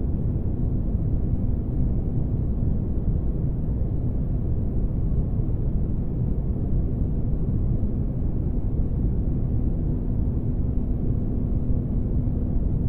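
Spaceship-interior ambience noise: a steady, deep, even noise with a faint hum under it and no changes.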